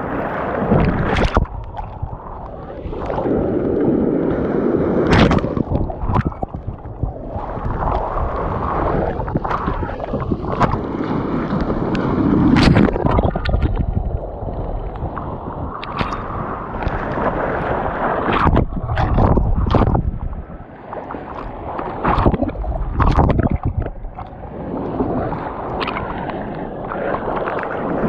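Sea water splashing around a kayak being paddled out through swell, coming in uneven surges with many short, sharp splashes.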